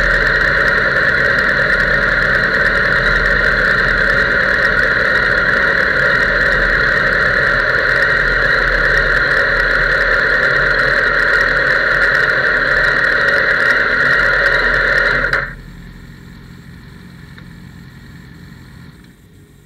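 Suzuki sportbike engine idling at standstill, picked up by the bike-mounted camera as a loud, steady drone with a high whine. It cuts off suddenly about three-quarters of the way in, leaving a much quieter hum that drops away again near the end.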